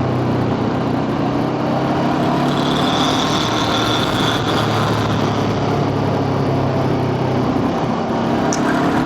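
Motorbike engine running at a steady cruising speed under even wind and road noise.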